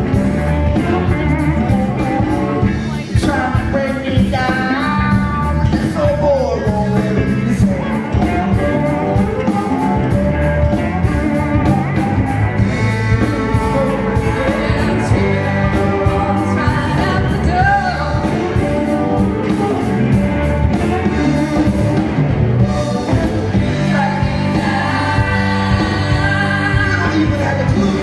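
Rock band playing live, with a lead vocal over electric guitar, bass and drums.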